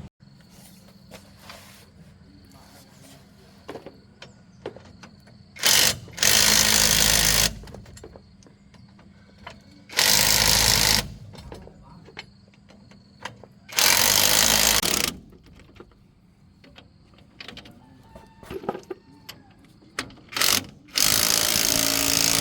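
A power tool run in short bursts, about four times, each lasting one to one and a half seconds and preceded by a brief blip.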